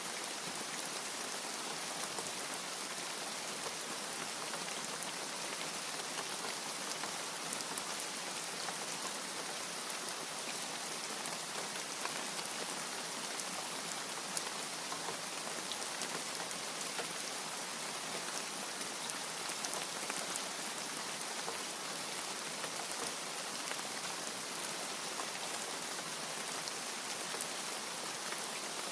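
Steady rain falling: a dense, even hiss with many small sharp drop ticks scattered through it.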